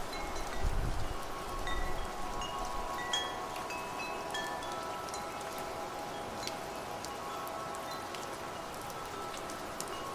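Wind chimes ringing with scattered, overlapping metallic tones over a steady patter of rain. A low gust of wind rumbles through the first second or two.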